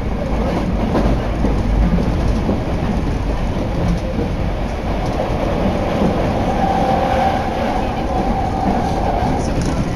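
Keisei Main Line electric train running, heard from inside the carriage: a steady low rumble of wheels on track with a few knocks. A steady whine comes in about six seconds in and fades out near the end.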